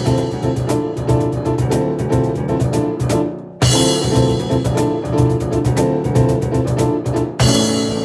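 Fast instrumental piano and percussion performance: rapid repeated piano chords over driving hand percussion. The music breaks off for a moment about three and a half seconds in and comes straight back in.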